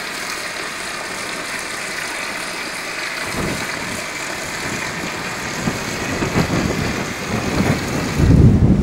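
Windstorm blowing through an abandoned building: a steady rushing hiss, joined from about three seconds in by low gusts that grow stronger. Near the end a heavy gust buffets the microphone.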